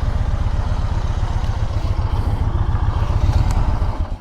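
Motorcycle engine idling with a steady low pulse, then switched off: it cuts out abruptly near the end.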